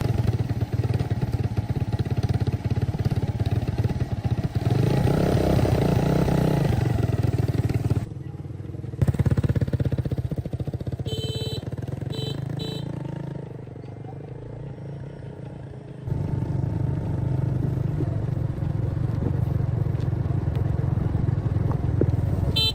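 Small motorcycle engine running after restoration, with fast even firing pulses. The sound comes in several short cuts: the level drops and comes back at about eight seconds and again at about sixteen. Three short high beeps come a little past halfway.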